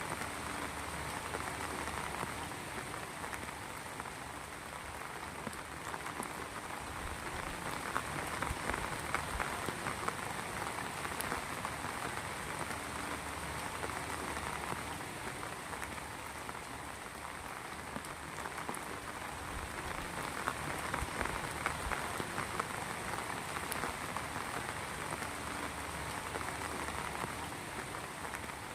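Steady heavy rain falling and pattering on surfaces, with the occasional sharper drop.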